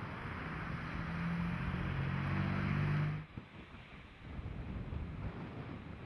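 Diesel locomotive engines working, a steady low drone that grows louder, then cuts off suddenly about three seconds in. Wind buffeting the microphone follows.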